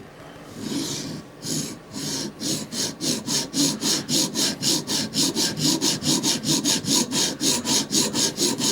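CBN sharpening stone on a guided sharpening system, stroked back and forth along the steel edge of a Microtech Combat Troodon tanto blade. It starts with a few slower strokes about half a second in, then settles into a steady rhythm of about four rasping strokes a second.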